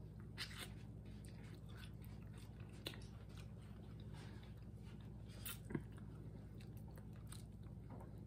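Close-up chewing and biting while eating duck pieces off the bone, with small crunches and mouth clicks scattered through; the sharpest come about half a second in, near three seconds, and just before six seconds.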